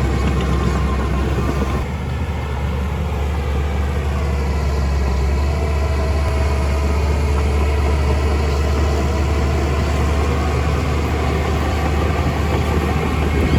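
Engine of a heavy construction machine running steadily, with a deep low rumble and faint whining tones above it.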